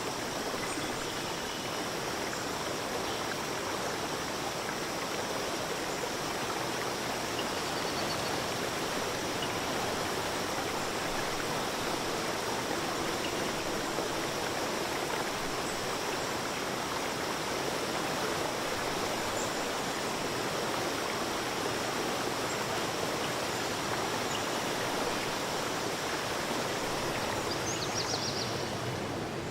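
Flowing stream water rushing steadily and evenly, without pause.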